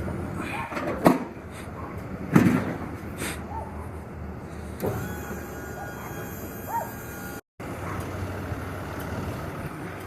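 Vehicle running with a steady low hum, with two loud knocks about one and two and a half seconds in.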